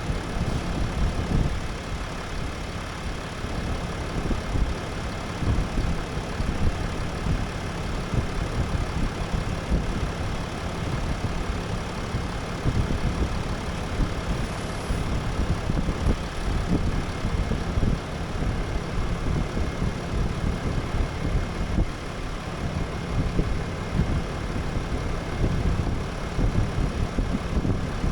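Ram 3500 dually's 6.7-litre Cummins High Output inline-six turbodiesel idling steadily after a fresh oil change. The engine is very quiet for a diesel.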